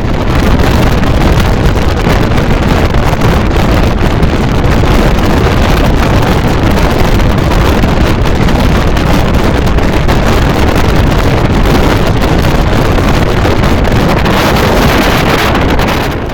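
Amrit Bharat Express train running at speed, a loud steady rush of rail and running noise with wind buffeting the microphone. It drops off sharply at the very end.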